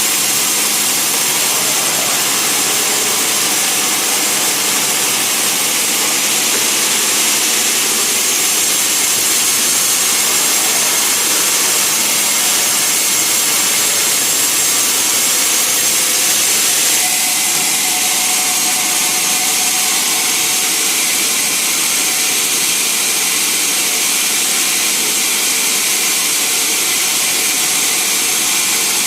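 Sawmill saw running and cutting timber, a loud steady whining noise that changes tone about seventeen seconds in.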